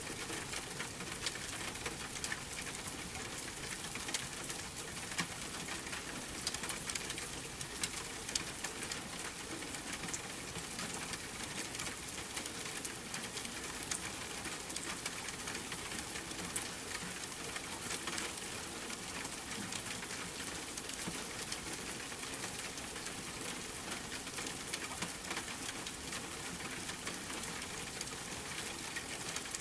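Steady rain ambience mixed with a fireplace, an even hiss of rainfall with small, irregular crackles and ticks scattered throughout.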